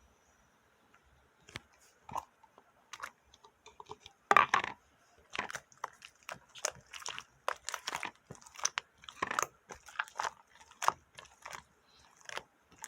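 A cat chewing crunchy food such as dry kibble. Irregular sharp crunches start sparse and come several a second from about four seconds in.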